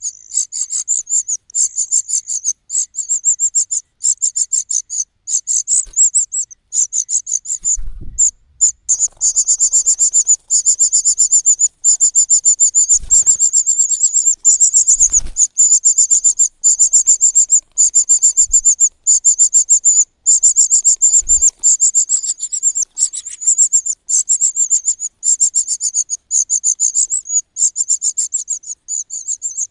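Cuckoo chick begging: a fast, continuous train of high-pitched calls with only brief pauses. A few short low thumps come in between, about 8, 13, 15 and 21 seconds in.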